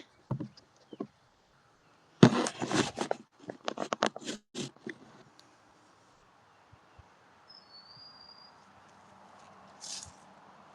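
Close rustling and knocking of movement next to the phone for a few seconds, then a faint outdoor hush with a short high bird whistle a little after the middle and a brief high chirp near the end.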